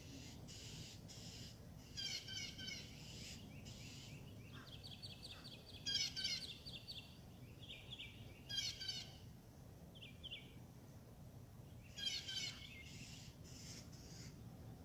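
Songbirds singing: short bursts of rapid chirping notes about every three to four seconds, with a steady high trill between two of them.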